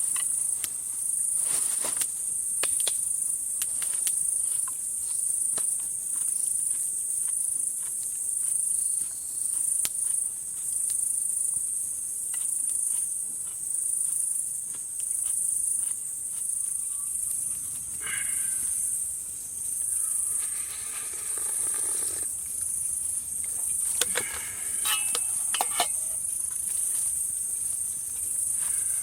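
Insects trilling in a high-pitched chorus that pulses about once a second, with scattered sharp clicks.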